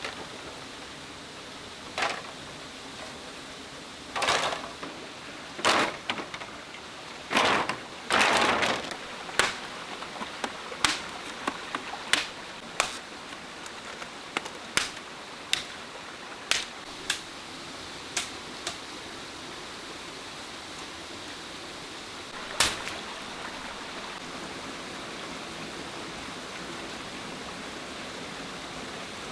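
Irregular sharp knocks and clicks, with a few longer rustling scrapes in the first nine seconds, thinning out to a last single knock over a steady hiss.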